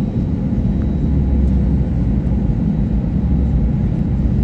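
Airbus A320 jet airliner's engines running with a steady low rumble.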